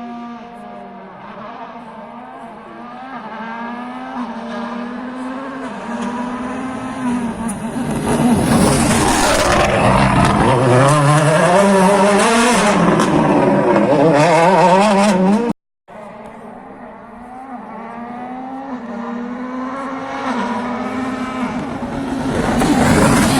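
Rally car engine approaching and passing close at speed, its pitch rising and falling as the driver revs and shifts, loudest in the middle. It cuts off abruptly about two-thirds of the way in, and a second rally car is heard approaching, getting louder toward the end.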